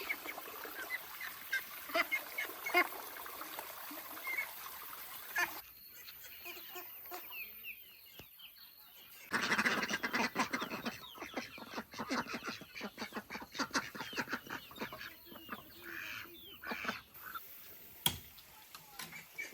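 Farmyard poultry calling: a flock of geese and ducks honking and quacking, sparse at first, then a busy stretch of rapid, overlapping calls from about halfway through.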